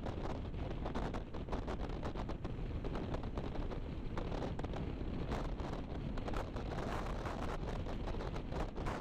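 Wind rushing over the microphone of a motorcycle riding at speed, a steady, dense roar with road and engine noise underneath.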